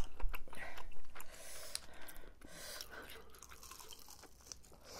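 Eating sounds of a fried gimmari (glass-noodle seaweed roll) in tteokbokki sauce being bitten and chewed, with crisp crunchy clicks in the first second or so, then softer, quieter chewing.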